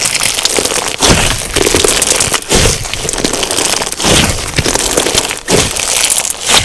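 Crunchy slime full of tiny sugar beads being squeezed and kneaded by hand, giving dense crackling crunches in repeated squeezes, roughly one every second or so.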